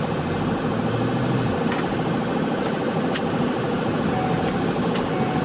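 Patrol car's engine and road noise heard from inside the cabin while driving, a steady drone with a few light clicks.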